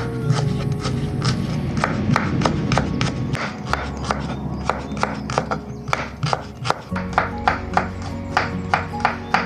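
Knife chopping on a cutting board, sharp regular chops about three a second, over background music.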